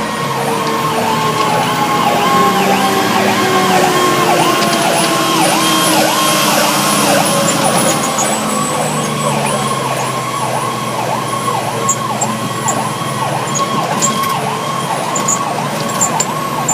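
Fire truck siren running in a rapid yelp, a quick rise and fall repeating over and over, heard from aboard a 2008 Pierce Arrow XT aerial ladder truck. A lower siren tone slowly falls in pitch over the first half, and the truck's engine runs underneath.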